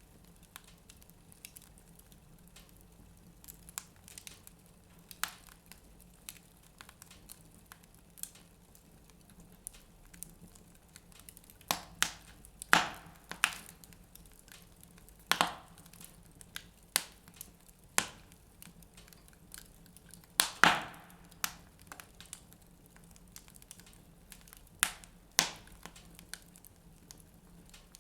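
Wood fire in a fireplace crackling: irregular sharp pops and snaps, sparse at first and then a busier run of louder cracks from a little under halfway through.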